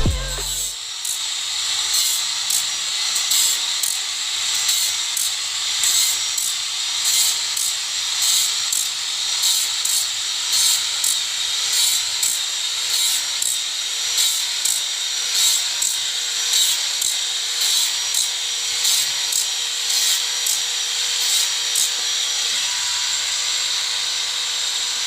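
Sawmill saw cutting through a johar log: a steady high-pitched whine and hiss, with a regular tick about twice a second that stops about 22 seconds in.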